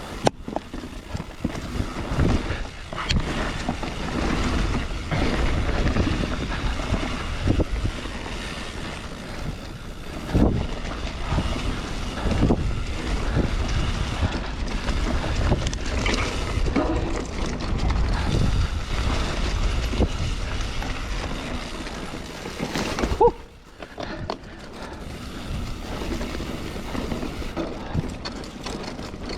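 Wind rushing over the microphone of a mountain bike riding a trail, with the bike rattling and knocking over rough ground. A brief squeak about three-quarters of the way through, after which the rush briefly drops.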